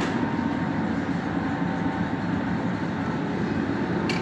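Steady machine drone with a thin, even whine, running without change, and a light click near the end.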